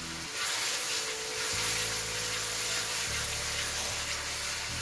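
Teriyaki sauce and spring onions sizzling and hissing in a hot wok on a high gas flame as they are stirred with a wooden spatula; the sizzle swells about half a second in and stays steady.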